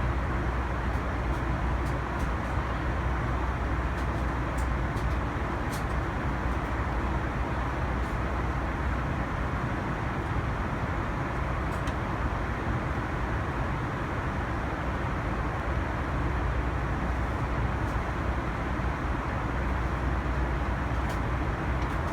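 Steady rumble and rush of a Boeing 747-400's passenger cabin, the engines and the airflow over the airliner's body heard from inside, with a few faint light ticks.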